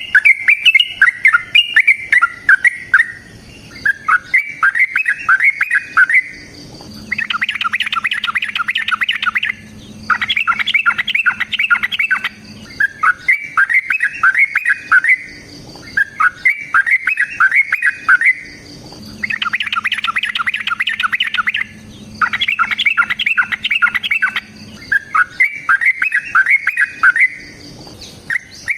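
Yellow-vented bulbul (trucukan) singing loud, repeated phrases of quick bubbling chirps, each about two seconds long. Twice a denser, faster trill breaks in, about a third of the way in and again past the middle: the long 'ropel' song used to lure and provoke other bulbuls.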